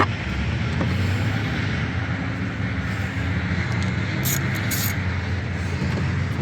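A steady low mechanical drone, with a few short light clicks, two of them close together about four to five seconds in.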